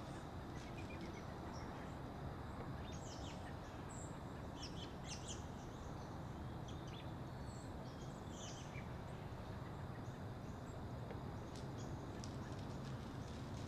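Small birds giving short, scattered chirps, most of them a few seconds in and again near the middle, over a steady outdoor background hiss.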